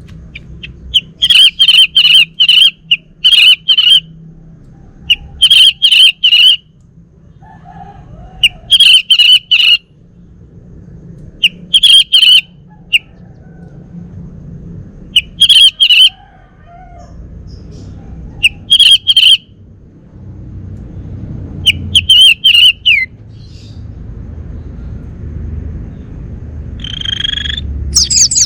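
Male orange-headed thrush singing: short rapid phrases of about a second each, repeated every two to three seconds, over a low background rumble. A different, higher call comes near the end.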